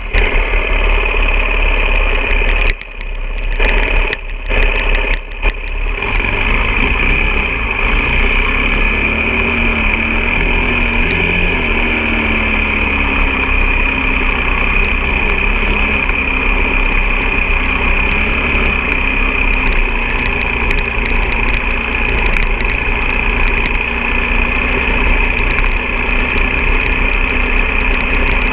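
Off-road motorcycle engine running steadily, with a few short drops in level a few seconds in.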